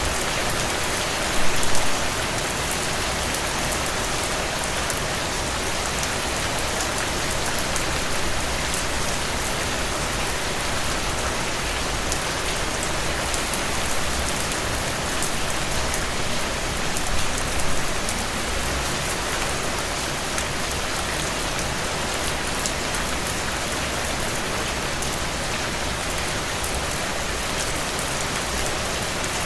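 Steady rain falling, an even hiss of dense drops, with a brief louder swell about a second and a half in and a smaller one around seventeen seconds.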